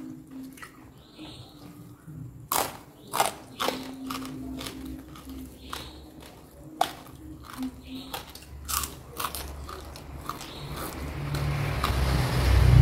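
Close-up biting and chewing of crunchy food, mostly raw lalapan, heard as a run of sharp crunches. Over the last couple of seconds a rushing noise with a low rumble swells up and peaks at the end.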